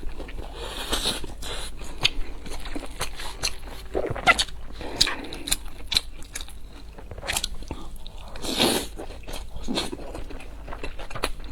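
A person eating close to the microphone: crunchy bites and chewing, with irregular sharp crackles and wet mouth sounds.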